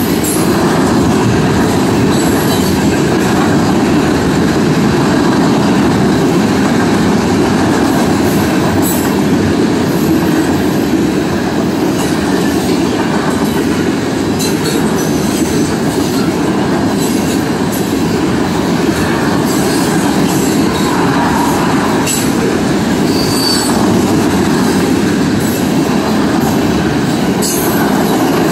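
Freight train cars rolling past at speed: a loud, steady rumble of steel wheels on the rails, broken now and then by brief high wheel squeals and clanks.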